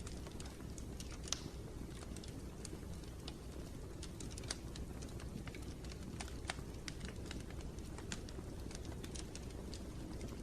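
Wood fire in a fireplace crackling: irregular sharp pops and snaps over a low, steady rumble of the flames.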